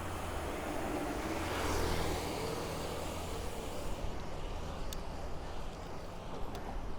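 Road and wind noise from a moving bicycle ride, with a motor vehicle passing that swells and fades about two seconds in. A few light clicks come near the end.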